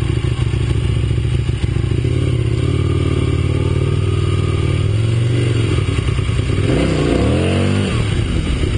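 Aprilia RSV Mille's 60-degree V-twin engine running at low speed, with one short rev that rises and falls near the end.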